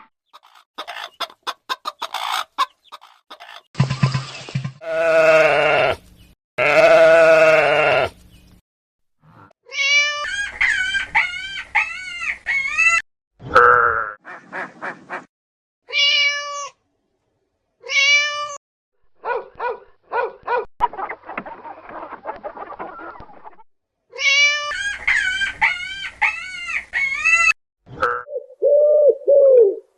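A string of separate farm animal calls: two long wavering bleats, then runs of short repeated clucking calls, single calls in between, and a lower call near the end.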